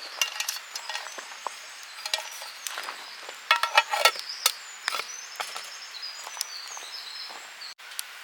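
Irregular sharp knocks and clicks of camp cooking work, such as a knife chopping on a board and utensils tapping, coming in a quick cluster a little past the middle. Birds sing faintly in the background.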